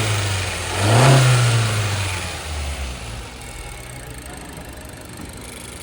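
Turbocharged car engine idling, then revved once about a second in, the pitch rising and dropping back to idle within about two seconds. The turbocharger has failed with an underboost fault, which the mechanic says has changed the engine's sound completely.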